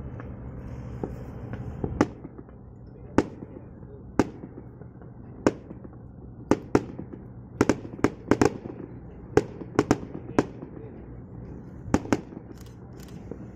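Firecrackers going off as single sharp bangs at irregular intervals, about twenty in all, over a steady low rumble.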